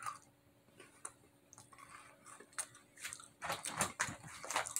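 A crisp Pocky cookies-and-cream biscuit stick bitten and chewed. There is a short sharp bite right at the start, then a run of crunching chews in the second half.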